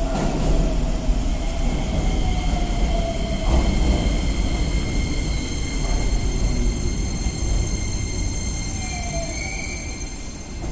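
Keikyu 1000 series electric train pulling into the platform and braking to a stop: wheel rumble with several steady high-pitched whines over it, easing off as it slows near the end.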